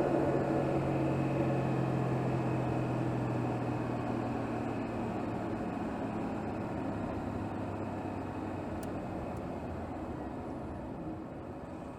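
Engine of a Mercedes GLS 450, a 3.0-litre turbocharged inline-six, heard from under the hood while driving in the city, getting steadily quieter as it eases off.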